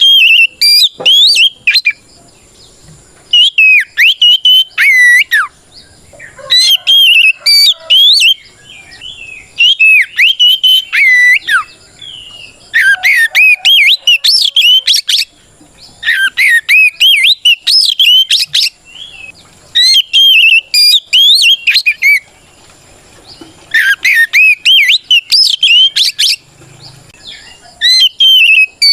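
Oriental magpie-robin (kacer) singing loud, rich whistled song in phrases of about two seconds, repeated with short pauses, nine times over. It is the full, open 'ngeplong' fighting song that calls out to rival males.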